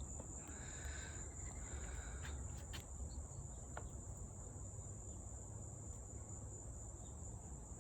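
A steady, high-pitched insect chorus that holds one pitch throughout, with a low rumble underneath.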